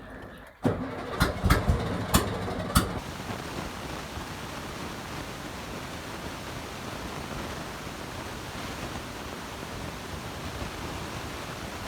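1971 VW Beetle's air-cooled flat-four engine, run without a proper exhaust. It dies away, catches again abruptly with several sharp pops over the first few seconds, then runs steadily before cutting out suddenly near the end.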